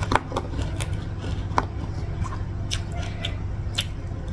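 Close-up eating sounds: food being chewed, with a few sharp wet mouth clicks and crunches spread through, over a steady low hum.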